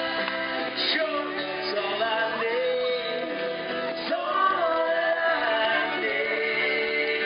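Live rock band playing: a singer's voice over guitars.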